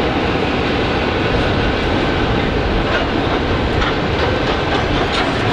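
Freight train rolling over a railway viaduct: a steady, loud noise of wheels and wagons on the rails, with a few light clicks of wheels over rail joints in the second half.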